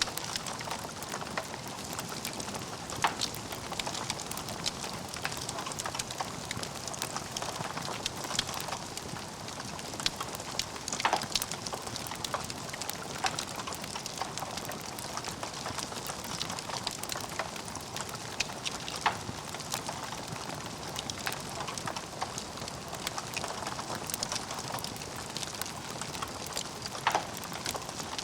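Logs burning in a fireplace: a steady crackle of small snaps, with a few louder pops about eight seconds apart.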